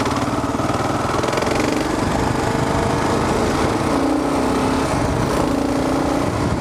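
Kawasaki KLR 650's single-cylinder engine running steadily while the bike is ridden, with wind rush over it.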